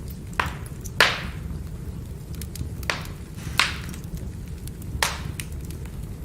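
Firewood burning with a low steady rumble and five sharp pops and snaps of the wood cracking, the loudest about a second in, with faint small ticks between.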